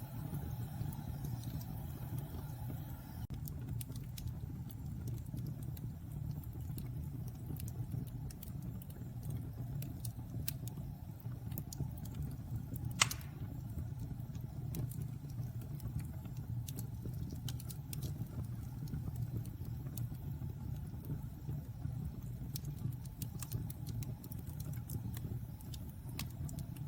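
Wood fire burning in a fireplace: a steady low rumble with scattered small crackles and one loud pop about halfway through.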